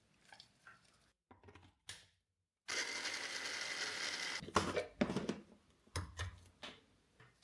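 A kitchen food chopper runs in one steady whir lasting under two seconds, with a thin whine in it, chopping garlic and herbs for a marinade. Several clicks and knocks follow.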